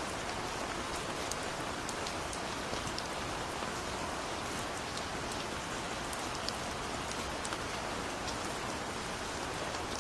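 Steady rain falling, an even hiss with the patter of individual drops landing on a surface.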